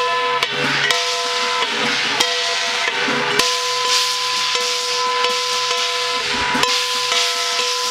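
Ritual music: a shrill wind instrument holds long notes, its pitch stepping now and then, over sharp, irregular percussion strikes.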